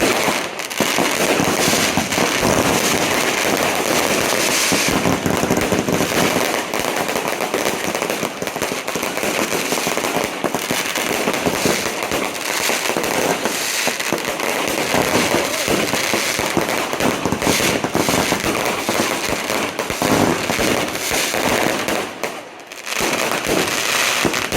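Firecrackers going off in a dense, continuous crackle of rapid bangs, easing briefly near the end before picking up again.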